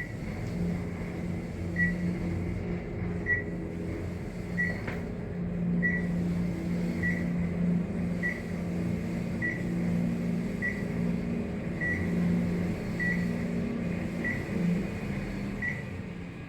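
Dover traction elevator running, with a steady low hum and a short high beep repeating about every 1.2 seconds; the beeps stop shortly before the end.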